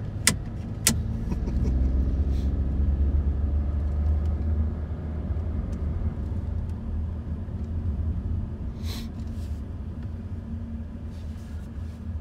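Cabin sound of a Volkswagen Virtus with its three-cylinder engine pulling steadily uphill at low speed: a low engine drone and road rumble. Two sharp clicks in the first second as the dashboard phone holder is handled.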